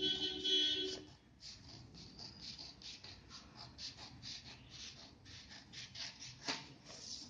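Scissors cutting paper: a long run of short, sharp snips as the blades work through an A4 sheet along a drawn outline. A steady pitched sound is heard during the first second.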